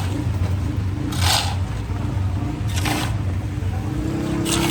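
A motor vehicle's engine running close by, a steady low rumble, with short hissing bursts every second and a half or so and a steady tone coming in near the end.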